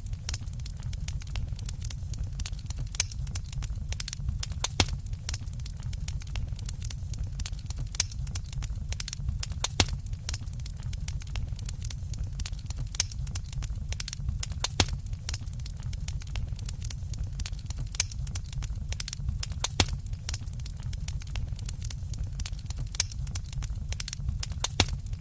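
Wood fire burning in a fireplace: a steady low rumble of the flames with frequent irregular crackles and occasional louder pops.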